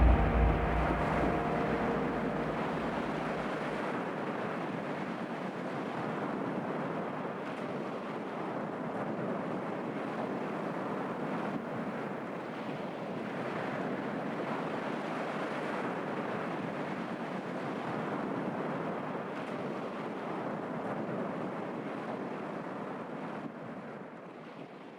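Steady rushing noise, like surf, with the tail of a low music chord dying away in the first second or two; the rushing fades out near the end.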